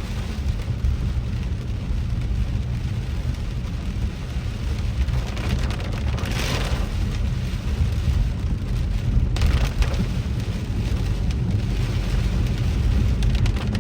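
Car driving through heavy rain: rain hissing and pattering on the car over a steady low road rumble. A louder wash of tyre spray swells and fades about six seconds in, and sharp drop ticks come through in the second half.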